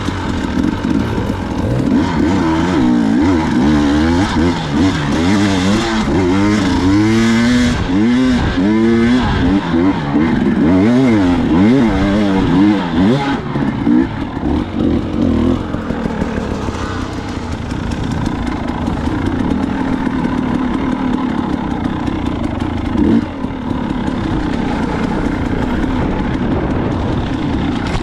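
Dirt bike engine revving up and down again and again while riding, for the first half or so, then running more steadily at lower revs.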